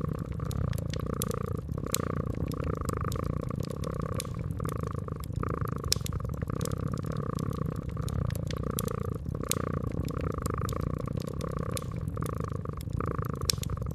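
A cat purring steadily, the purr swelling and fading a little faster than once a second, with sharp crackles and pops from a wood fire scattered throughout.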